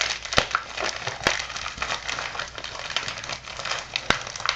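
Mailing package being pulled and torn open by hand, its packaging crinkling and rustling, with a few sharp snaps, one near the start, one about a second in and one near the end.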